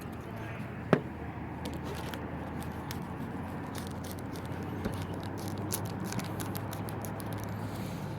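Adhesive being scraped and picked off a Surface Pro 3's screen panel: a run of small, irregular crackling clicks over a steady low hum, with one sharper click about a second in.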